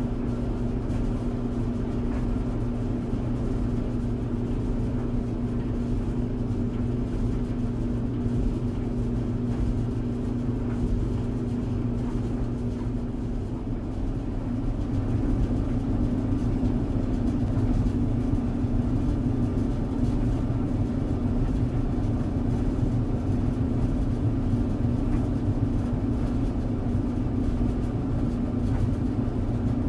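Clothes tumble dryer running: a steady low hum with a constant drone, its texture shifting slightly about halfway through.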